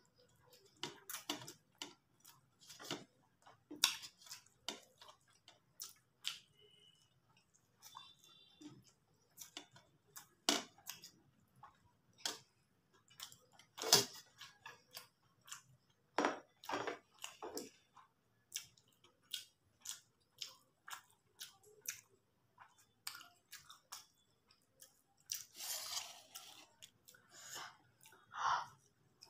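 Close-miked chewing of vegetable chow mein noodles eaten by hand, a steady run of short mouth clicks from the chewing. There is a louder click about halfway through.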